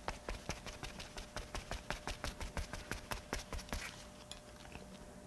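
Makeup puff patting primer onto the face: a rapid run of soft, even dabbing taps, several a second, that stops about four seconds in.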